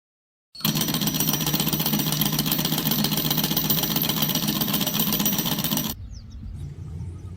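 Homemade single-cylinder magnet engine running fast with a loud, rapid clatter. About six seconds in it cuts off abruptly to a quieter low hum.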